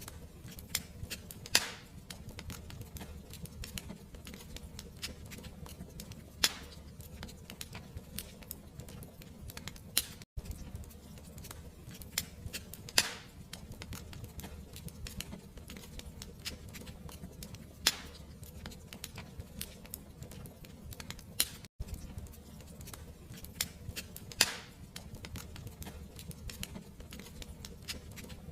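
Fireplace wood fire crackling, with irregular sharp pops and snaps over a low steady rumble. A few louder pops stand out, and the sound cuts out for an instant twice.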